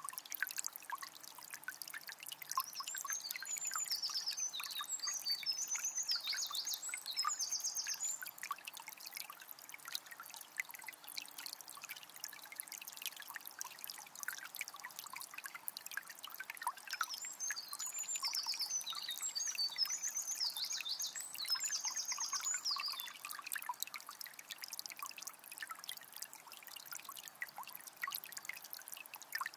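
Calm forest river trickling and flowing steadily. A songbird sings a long, twittering phrase twice, about 15 seconds apart.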